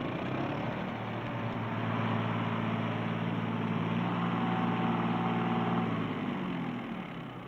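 Ford 1910 compact tractor's three-cylinder diesel engine running steadily. It grows louder over the first second or two and fades away near the end.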